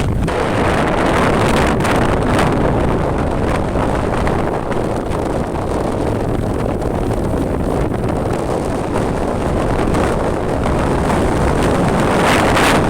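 Wind buffeting the microphone on a moving motorcycle, with engine and road noise underneath as a steady rush. It swells louder and brighter near the end.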